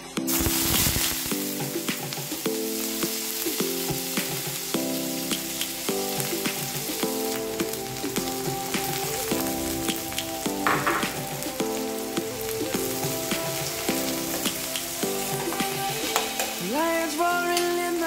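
Sliced onion and chopped red bell pepper sizzling in hot oil in a frying pan. The sizzle jumps up sharply just after the start, as the onion goes into the oil. Instrumental background music plays over it.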